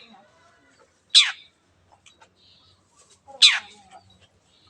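Long-tailed shrike (cendet) giving two loud, harsh calls about two seconds apart, each a quick downward sweep from high to low pitch, with faint clicks in between.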